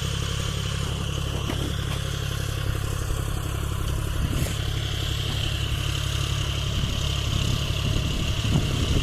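John Deere 5050D tractor's three-cylinder diesel engine running steadily, with a constant high whine above the engine's low drone.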